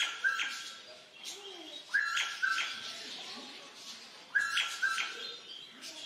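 Bird calls: a sharp two-note call, the notes about half a second apart, repeated three times roughly every two seconds, among fainter chirps.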